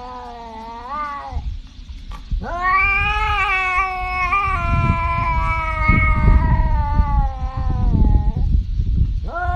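Domestic cat yowling in long, drawn-out calls: one ends about a second and a half in, the next lasts about six seconds, and another starts near the end, over a low rumble.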